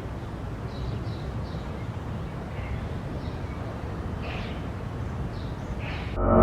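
Outdoor ambience: a steady low rumble with faint short bird calls repeating through it. Music starts right at the end.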